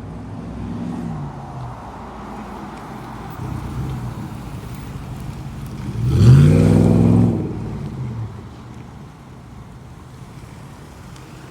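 2008 Jeep Commander's 5.7 L Hemi V8 through a Magnaflow exhaust, being revved: a couple of short blips, then one big rev about six seconds in, the loudest, that drops back to idle a couple of seconds later.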